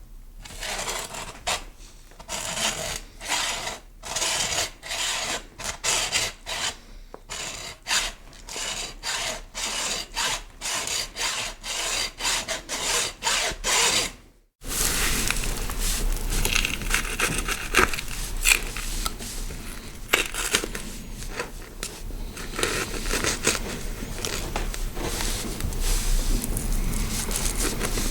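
Two scraping foley effects back to back: first a run of quick rasping strokes, about two a second, then after a sudden cut a denser, continuous scraping and rubbing with a few sharp clicks.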